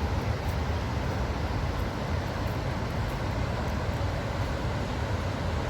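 The Dubai Water Canal waterfall: a large volume of water pouring into the canal in a steady, unbroken rush with a deep rumble underneath.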